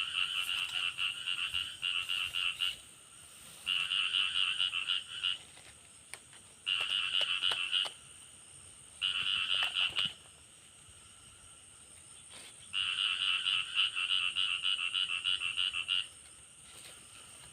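A frog calling in rapid pulsed trills, five bouts of one to three seconds each separated by short pauses. A faint steady high-pitched whine runs underneath.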